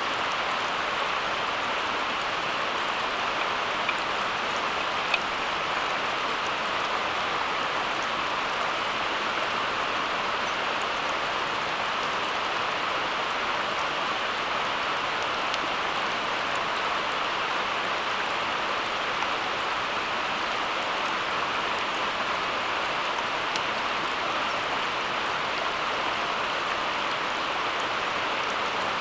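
Steady, even water noise, with a faint tick about five seconds in.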